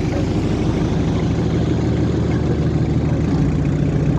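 Inboard engine of a vỏ lãi boat running steadily underway, its note deepening slightly a little past three seconds in.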